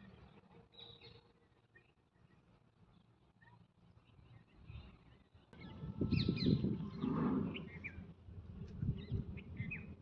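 Short bird chirps, thickening in the second half. About halfway through there is a louder stretch of rustling and thumping, as the bird is set down by hand on dry leaf litter.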